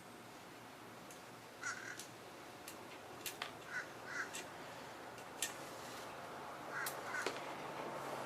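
Light clicks and taps of hands handling wiring and plastic fender parts, with a few short, harsh calls in pairs from a bird.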